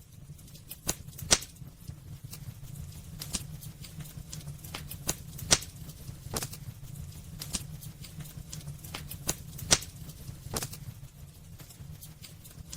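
Wood burning in a fireplace, crackling with irregular sharp pops and snaps over a steady low rumble of the fire.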